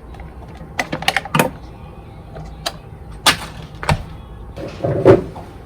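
About half a dozen separate light clicks and knocks of small objects being handled, the loudest about five seconds in.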